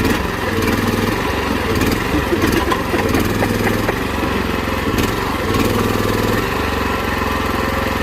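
Small gasoline engine on a towable backhoe running steadily, its note shifting several times as the hydraulic levers load it during digging. There are a few light clicks about two to three seconds in.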